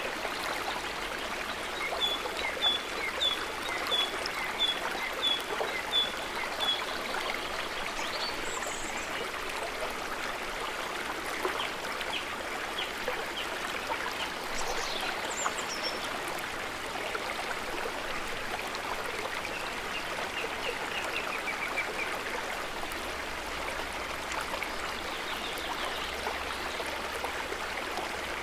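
Running water of a stream or river, a steady rushing flow. Over it comes a run of short high chirps, about three a second, from a couple of seconds in to about seven seconds in, and a few more chirps later.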